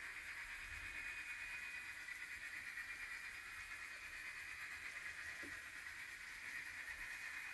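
Faint, steady whir of model railway trains running on the layout: small locomotive motors and wheels rolling on the track.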